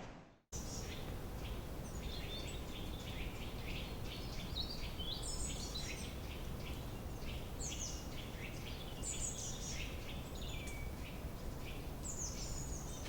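Several birds chirping and singing, short repeated calls and quick falling trills, over a steady background hiss.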